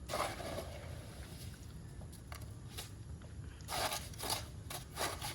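Gritty scraping and crunching of concrete mix being worked with a tool, in several short strokes, the strongest near the start and about four seconds in.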